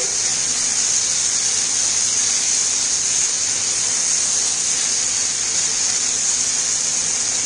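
Steady sizzling hiss of a paneer-and-potato filling frying over high heat in a nonstick pan as it is stirred, with a faint low steady hum underneath.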